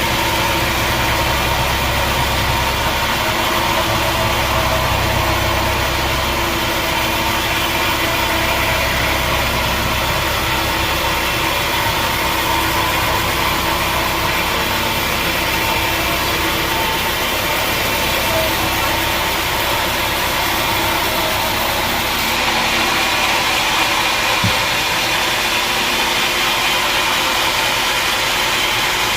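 Sawmill machinery running steadily with a constant mechanical hum and drone. About two-thirds of the way through, the low rumble falls away and a higher hiss comes up, and a single short knock follows.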